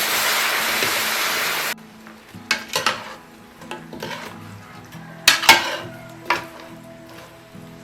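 Food sizzling in a hot pan, cutting off abruptly a little under two seconds in. After that, a metal utensil stirs, scrapes and clinks against the pan several times, with the sharpest knocks just past the middle.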